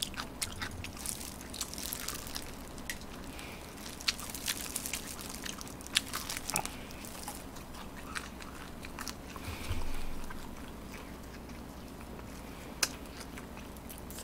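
Close-miked chewing and crunching of crispy fried chicken, with a string of sharp crunches that thins out after about eight seconds. A brief low bump comes about ten seconds in.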